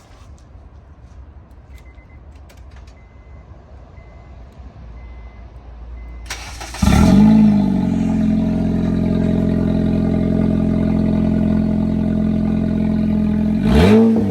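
A few faint clicks, then about seven seconds in the 8th-generation Honda Civic's engine starts: it catches with a brief flare in revs, settles to a steady idle through the exhaust, and gets one short blip of the throttle near the end.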